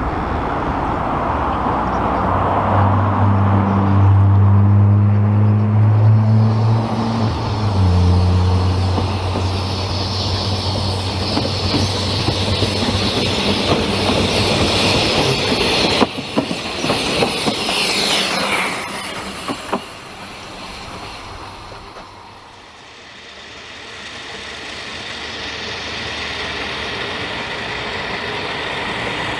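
Ffestiniog Railway narrow-gauge train running past. A loud low drone from the locomotive lasts for several seconds, then comes a rapid run of clicks from the wheels over the rail joints with a falling wheel squeal. The sound fades briefly before a steady rumble builds again near the end.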